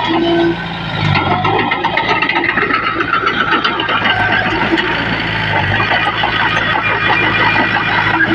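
Diesel engine of heavy earthmoving machinery running steadily, with rattling over the engine note.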